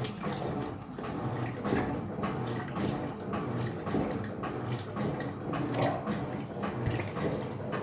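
Electrolux LF75 top-load washing machine agitating a load, with water churning and sloshing in the tub in irregular splashes over a low hum.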